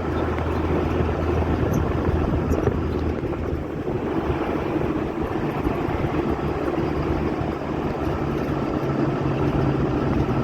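A steady engine drone under rushing noise, its low hum shifting higher about five seconds in.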